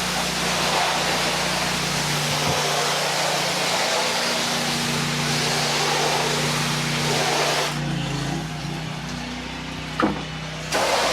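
Honda 8 gpm pressure washer running, its engine droning steadily under the hiss of the high-pressure spray. The spray cuts off about eight seconds in while the engine keeps running, a short sharp sound comes near ten seconds, and the spray starts again near the end.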